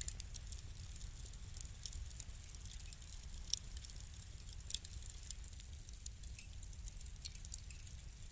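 Wood fire crackling steadily, with frequent small snaps over a low rumble and a couple of sharper pops a little past the middle.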